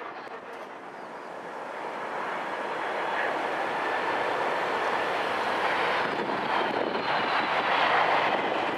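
Twin-engine wide-body jet airliner on approach to land, its engine noise a steady rush with a faint high whine, growing louder over several seconds and loudest near the end as it passes close.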